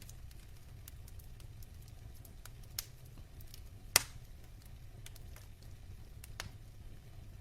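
Logs burning in a fireplace, crackling with scattered small pops over a low steady rumble. One loud, sharp pop comes about four seconds in, with smaller pops a little before it and again near the end.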